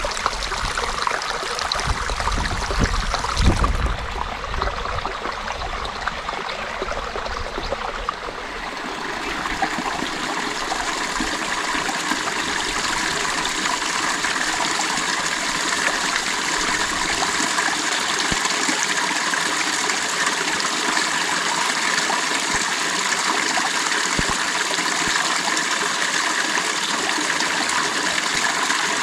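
Creek water flowing, a steady rushing and trickling. A low rumble sits under it for the first four seconds.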